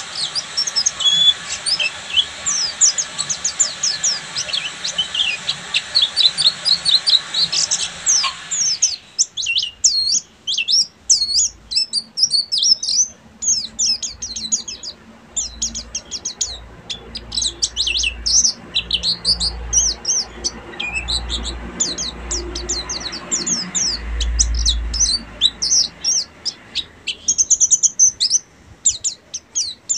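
Pleci (white-eye, Zosterops) singing a fast, high twittering 'ngeriwik' song: a dense, unbroken run of short chirps and trills. A steady hiss sits behind it for about the first nine seconds and again near the end.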